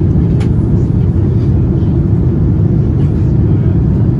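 Steady, loud low rumble of a Boeing 787-9 with GEnx engines, heard from the passenger cabin, with a faint click about half a second in.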